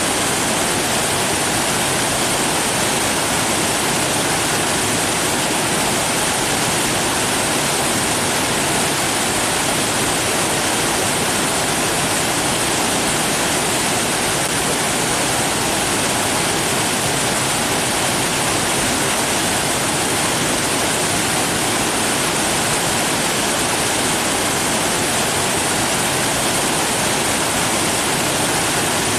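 Steady rushing water, an even unbroken hiss with no splashes or changes.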